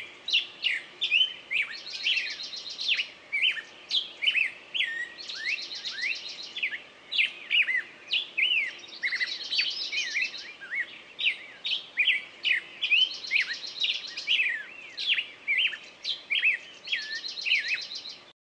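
Birds calling: a fast run of sharp, falling chirps several times a second, with a buzzy trill coming back every three to four seconds.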